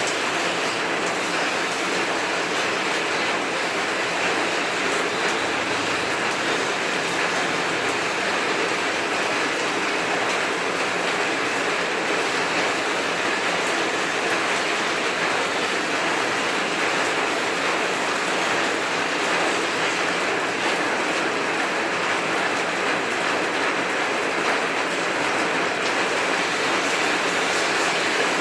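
Heavy rain pouring down steadily, an even, unbroken rush.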